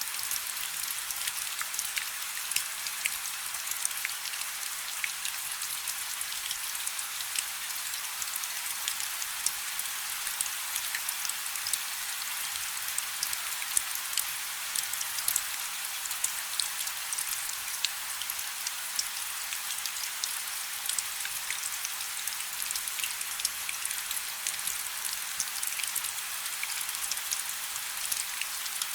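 Light rain falling: a steady hiss of many small drops, with scattered sharp ticks of single drops striking a surface.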